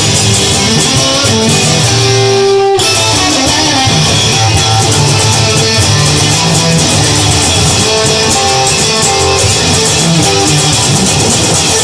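Instrumental break in a guitar-led song: electric guitar playing over bass, with no singing.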